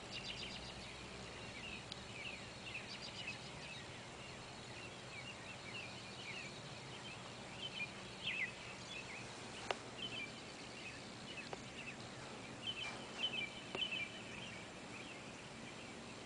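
Many small birds chirping and twittering, a flock calling on and off, with one sharp click about ten seconds in.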